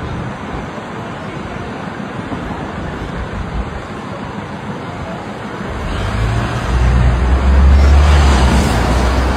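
Car driving, a steady mix of road and engine noise, with a deep rumble that builds from about six seconds in and is loudest near the end.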